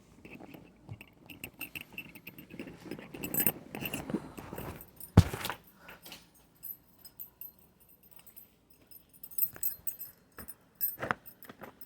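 Keys jangling among rustling and handling noises, with a sharp knock about five seconds in and another near the end.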